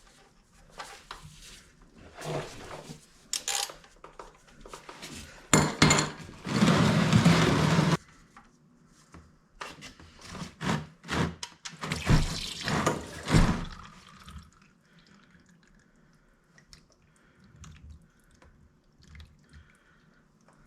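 Clanks and knocks of tools and parts being handled, with a loud hissing blast lasting about two seconds around six seconds in. After about fourteen seconds only faint scattered drips are left, water dripping off the freshly washed engine.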